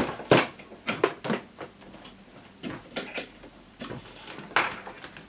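Cable plugs being pulled out of a desktop PC: irregular sharp clicks and knocks, the loudest near the start.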